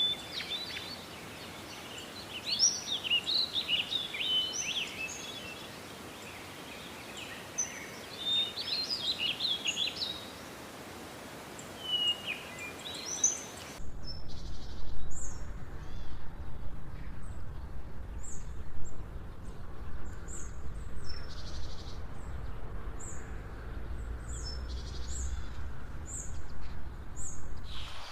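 Small songbirds chirping and singing over a faint outdoor hiss. About halfway through, the sound cuts abruptly to a low rumble, with a bird repeating a short, high call about once a second.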